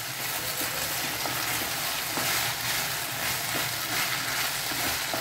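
Fried baby corn in chilli sauce sizzling steadily in a pan as it is stirred, with a few light scrapes from the spoon.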